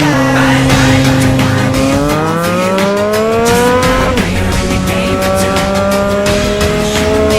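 Triumph Trident 660's inline three-cylinder engine accelerating under load: the revs climb for about two seconds, fall abruptly at an upshift about four seconds in, then climb slowly again in the next gear.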